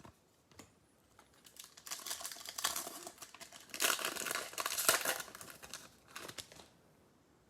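Trading card pack's foil wrapper crinkling as it is torn open and the cards pulled out, in rustling spurts starting about two seconds in and loudest near the middle.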